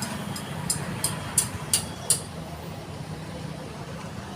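About six sharp metallic clicks, evenly spaced at roughly three a second, during the first two seconds as the intake manifold is being fitted back on, over a steady low engine hum.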